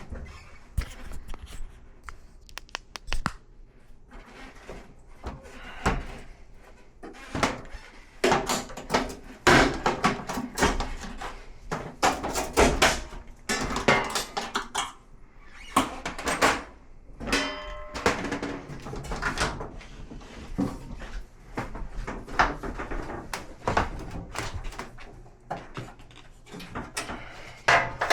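Repair work on a top-load washer: an irregular run of clicks, knocks and thunks from tools and the machine's sheet-metal cabinet and plastic parts being handled, busiest in the middle.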